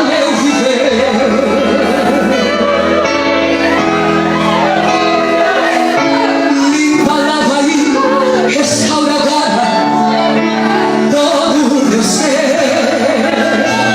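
Live gospel worship music: a woman singing lead over a band with sustained keyboard chords.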